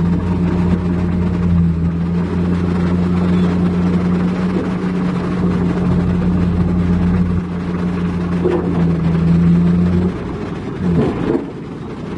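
Heavy diesel machinery engine running with a steady hum, which drops away about ten seconds in.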